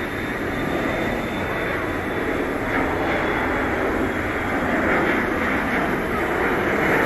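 Jet airliner engines running with a dense, steady rush and a thin high whine, slowly growing louder.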